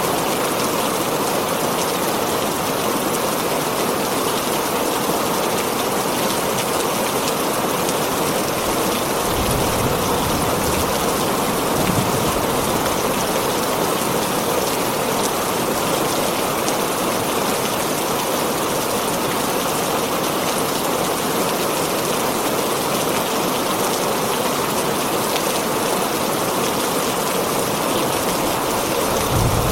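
Heavy rain drumming steadily on a tin roof, a dense, even hiss of drops. A brief low rumble swells underneath about nine to twelve seconds in.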